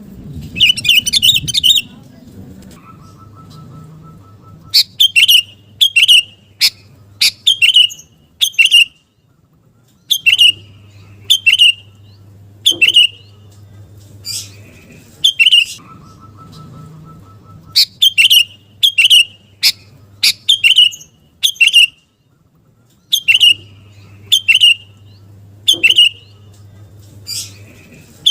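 Sooty-headed bulbul (kutilang) singing loud, short, sharp call notes about once a second in runs, with pauses between the runs. A faint steady buzz sounds in the pauses.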